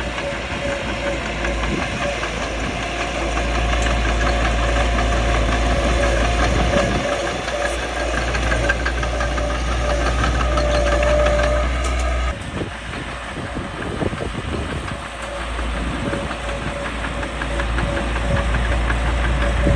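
Caterpillar D3C bulldozer's diesel engine running, with a steady whine over a deep rumble; about twelve seconds in the rumble drops abruptly and the engine sounds lighter.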